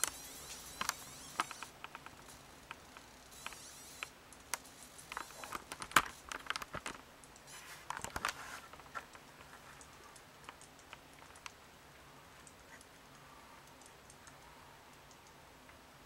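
Plastic juice container clicking and crackling at the lid's airtight seal, in irregular sharp ticks, thinning out after about nine seconds to faint occasional ticks.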